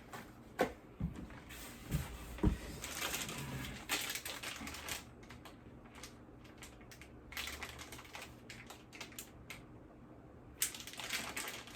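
Small plastic-packaged electronics accessories being handled: a few sharp knocks, then rustling of plastic packaging, a run of quick light clicks, and more rustling near the end.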